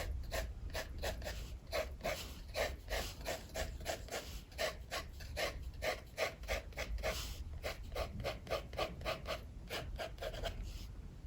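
Quick back-and-forth sketching strokes on paper, scratching rhythmically at about three strokes a second and stopping near the end, over a low rumble of strong wind.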